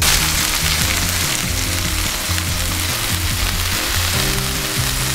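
Elk burger patties frying on a hot steel griddle top, a steady sizzling hiss, with background music's low notes underneath.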